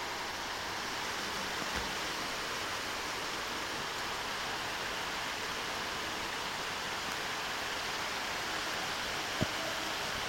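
Steady, even rushing noise, with a single soft knock about nine seconds in.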